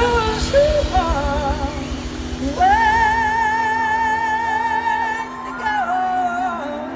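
Live blues-rock band playing a slow song, a lead line holding one long high note with vibrato over the band before sliding down.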